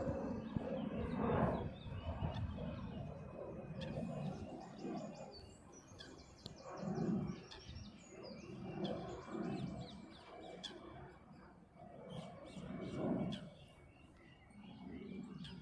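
Small birds chirping in quick, repeated high trills, over faint distant voices and calls from the lakeside.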